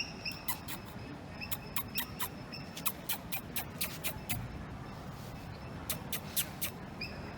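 Small birds chirping: a busy run of short, sharp high chirps, mixed with a few brief high whistled notes, over a low steady background hum.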